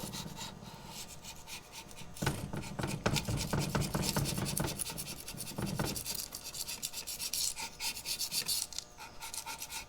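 Hand scraper working over the Oliver 77's PTO housing in short repeated strokes, scraping off caked grime and old paper gasket.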